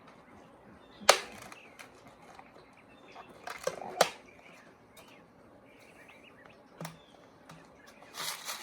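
A rubber band being stretched and wrapped around a plastic bottle: two sharp snaps about a second in and about four seconds in, with lighter taps and rustling of the plastic between them and near the end.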